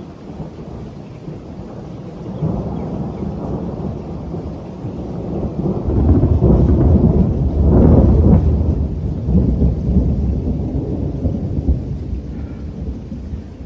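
A long peal of thunder rolling over steady rain: the rumble swells about two seconds in, is loudest in the middle, then slowly dies away.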